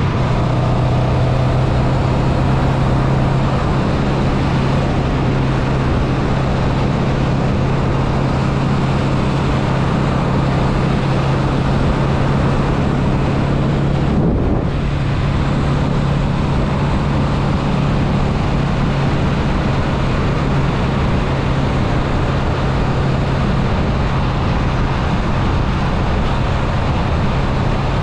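2022 Honda Rebel 500's parallel-twin engine running steadily at highway cruising speed, under heavy wind and road rush on the microphone. About halfway through, the engine note breaks briefly as the bike is shifted up from fifth to sixth gear, then carries on steadily.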